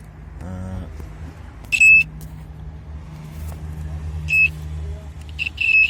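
An electronic circuit-test indicator beeps in short, high, single-pitch beeps at uneven intervals: about a second in, past the middle, and again near the end. Each beep marks the probe finding a live contact against ground. A low steady hum runs underneath.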